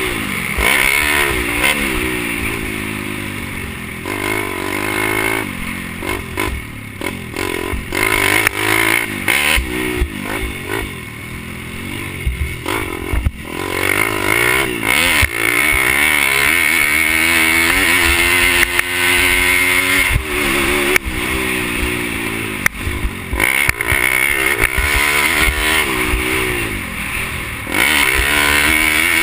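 Pit bike engine racing, its pitch rising and falling over and over as the rider opens and closes the throttle, with scattered clattering knocks.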